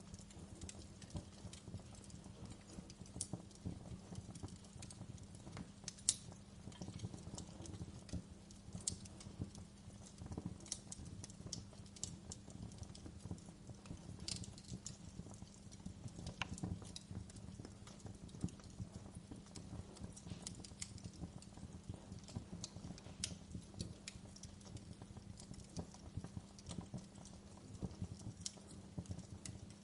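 Wood fire crackling in a fireplace: irregular sharp pops and snaps over a steady low rumble from the burning, with one louder pop about six seconds in.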